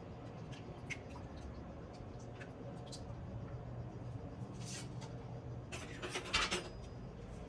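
Small handling noises while cooking: a few light clicks and taps, then a brief rustling scrape about six seconds in, over a steady low hum.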